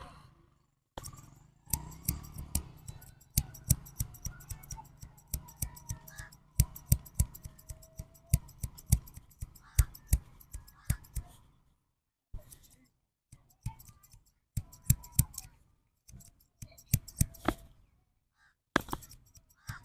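Barber's scissors snipping hair close to the microphone: quick runs of sharp clicks, several a second, broken by a few short pauses.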